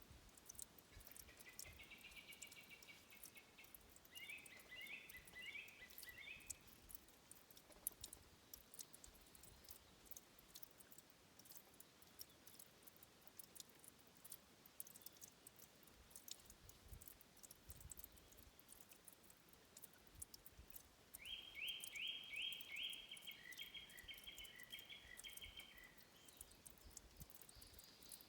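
A small songbird singing two short phrases of quick repeated notes, one about a second in and another past twenty seconds, over a quiet natural background with faint scattered ticks.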